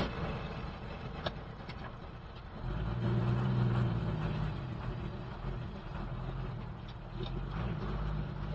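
An old BMC truck's engine running on the move, heard from the cab. A low engine drone swells louder about three seconds in and again near the end, with a sharp click at the start and another just after a second in.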